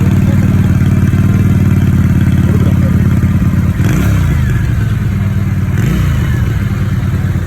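Keeway Benda V302C's V-twin engine running through its exhaust at idle, with two brief throttle blips a little past the middle that lift the pitch and let it fall back.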